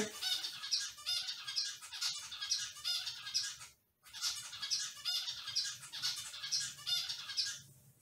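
Pet bird squawking and chirping in a rapid run of short, high calls, with a brief pause about four seconds in and a stop just before the end.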